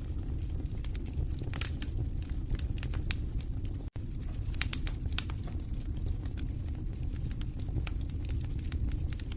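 Wood fire burning in a fireplace: irregular sharp crackles and pops over a low, steady rumble of the flames. The sound cuts out for an instant about four seconds in.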